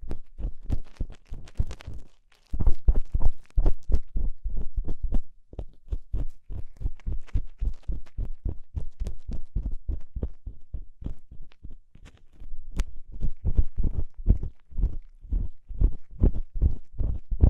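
ASMR ear cleaning on a binaural microphone's ear: rapid scratching and rubbing strokes, about four to five a second, with deep muffled thumps, pausing briefly about two seconds in.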